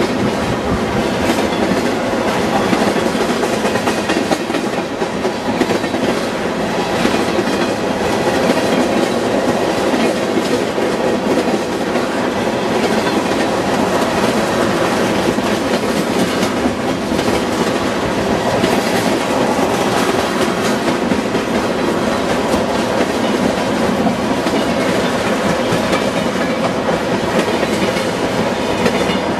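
Freight train tank cars rolling past: a steady rumble with the clickety-clack of steel wheels over the rail joints.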